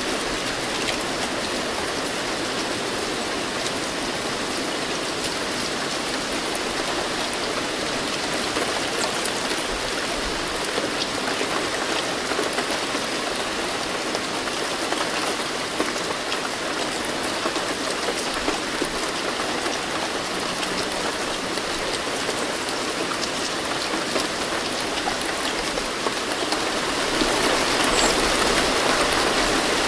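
Steady, heavy rain falling, with scattered drops ticking. It gets a little louder a few seconds before the end.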